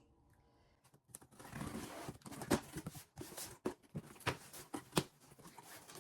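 Rustling and crinkling of packaging, with sharp clicks and taps, as a box is opened and the items inside are handled, starting about a second in.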